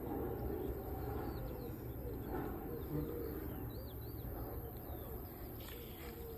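Birds calling outdoors: a dove cooing low and small birds chirping faintly in short arched notes, over a steady low background hum.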